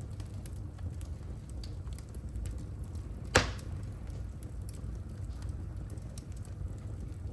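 Wood fire crackling in a fireplace, with small scattered pops over a low rumble of the flames and one loud sharp pop about halfway through.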